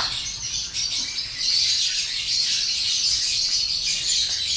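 A large flock of caged lovebirds chattering all at once: a dense, continuous high-pitched twittering with no single call standing out.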